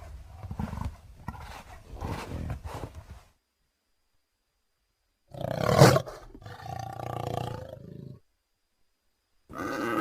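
Leopard calls: a series of rough grunts for about three seconds, then, after a sharp cut to silence, one loud, harsh call that trails off into a lower growl. Another call begins near the end.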